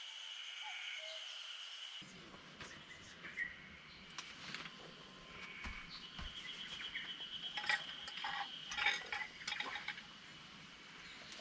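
Birds chirping, with a steady high-pitched trill in the background. From about two seconds in there are scattered light clinks and knocks.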